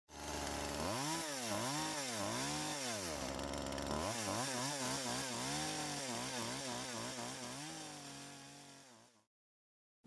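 Added sound effect of a small two-stroke engine, chainsaw-like, revving up and down: slow swells for the first few seconds, then quicker revs, then holding steady before it cuts off abruptly.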